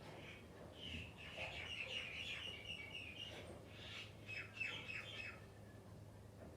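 Birds chirping in quick runs of short high notes, one spell about a second in and another about four seconds in, over a faint steady low hum.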